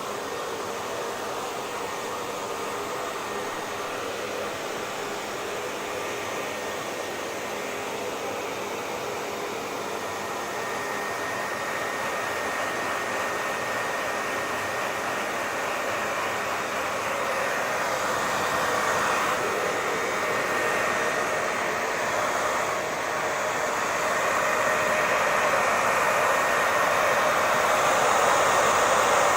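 Hair dryer running steadily: a continuous rushing blow with a faint steady whine, growing slowly louder.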